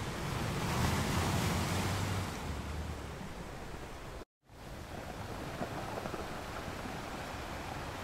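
Ocean surf washing onto a beach: a steady rush of breaking waves that swells during the first couple of seconds and then settles. A little past halfway the sound cuts out completely for a split second, then resumes.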